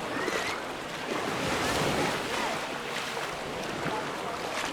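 Sea surf washing and sloshing, with wind buffeting the microphone.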